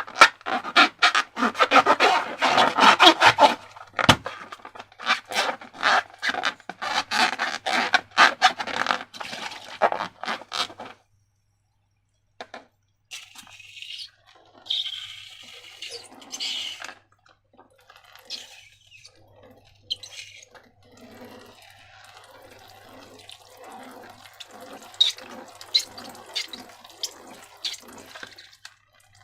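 Wet, sticky slime being squished and stirred: dense crackling squelches for the first third, then a short silence, a few hissy wet bursts, and softer squelches about twice a second.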